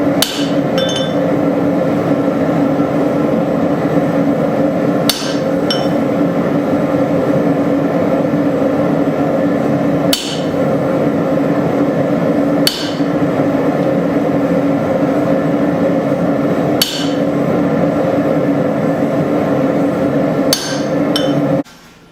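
Hammer blows on steel every few seconds, struck on a drift to punch the hatchet's eye hole, over a loud steady roar that cuts off suddenly near the end.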